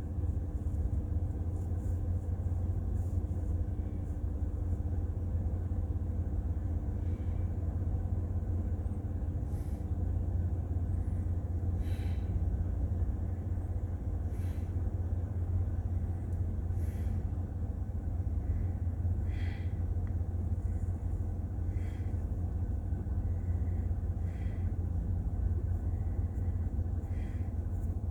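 Steady low background rumble, with faint light ticks every second or two.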